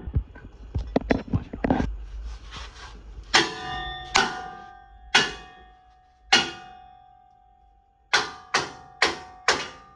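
Clattering knocks on metal, then about eight hard strikes on a metal exhaust part, each ringing out with a clear metallic tone that dies away. The last four strikes come in quick succession near the end. The blows are hammering at a seized exhaust part, the catalytic converter, to get it off.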